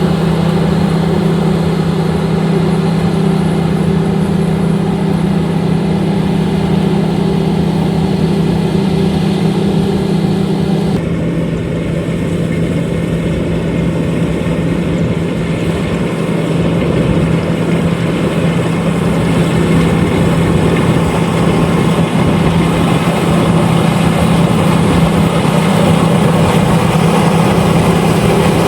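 LOVOL RG130EVO combine harvester running steadily in a rice field. Its engine hum shifts about eleven seconds in as the higher sounds drop away, then grows gradually louder again.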